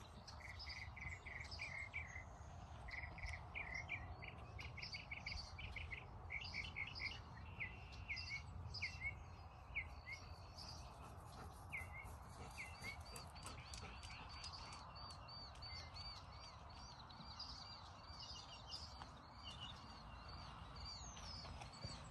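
Wild birds chirping and singing: short repeated chirps through the first half, then a fast run of repeated high notes from about halfway on, over a steady low rumble.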